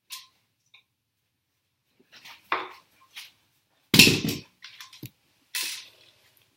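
Clattering knocks and scrapes of hard, metallic-sounding objects being handled, a few separate hits with the loudest about four seconds in.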